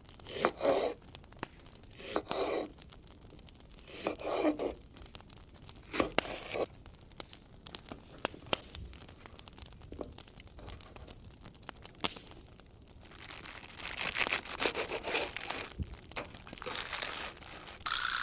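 Crinkling and tearing handling sounds: a few short bursts, then a longer run of rustling near the end.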